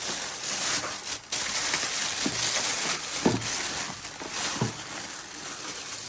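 Plastic packaging rustling and crinkling as it is handled during unpacking.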